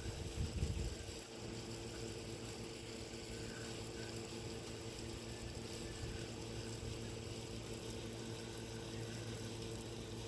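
Air conditioner running, a steady hum.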